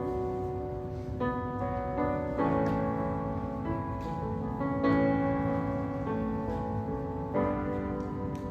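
Piano playing slow, gentle chords, a new chord struck every second or two and left to ring.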